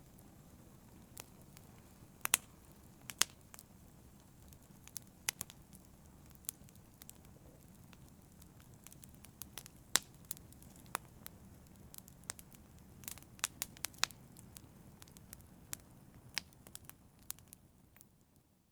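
A fire crackling, with irregular sharp pops and snaps over a low steady rumble. The sound fades out near the end.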